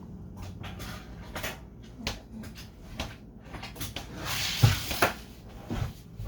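Scattered light clicks and knocks of handling, with a louder rustle and a sharp knock about four and a half seconds in.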